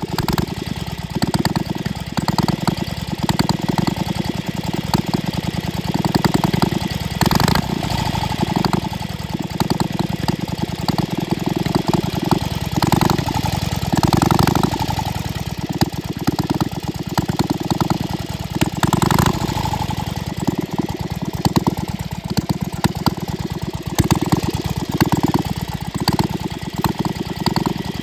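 1913 Excelsior motorcycle engine running at its first start, firing in rapid, uneven beats, with brief rises in speed about 7, 14 and 19 seconds in.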